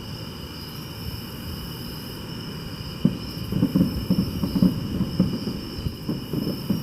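Crickets chirping steadily, with a run of irregular low rumbling thumps starting about three seconds in.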